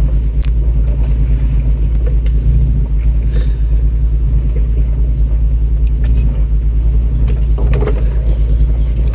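Ford Bronco's engine running with a steady low rumble as it crawls slowly over a rocky trail, with a few short knocks and clunks from the truck working over the rocks.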